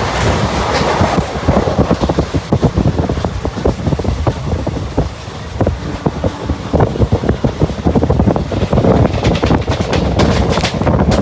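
Moving passenger express train running on the rails: a steady rumble with a rapid, irregular clatter of wheels and rattling coach, with wind buffeting the microphone.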